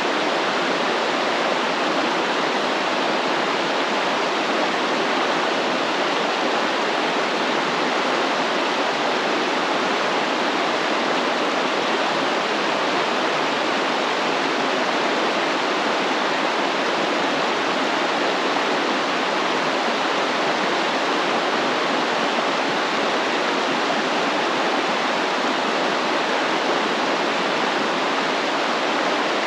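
Stream water flowing and splashing in a steady, unbroken rush.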